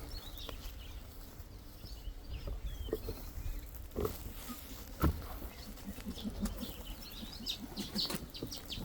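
Small garden birds chirping and twittering in short, scattered calls. There are two sharp knocks around four and five seconds in, and a short run of low, rapid pulses a little later.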